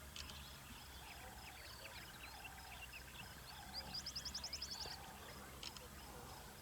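Faint outdoor bush ambience with scattered short, high bird chirps. About two-thirds of the way through comes the loudest part, a quick run of about nine high rising notes.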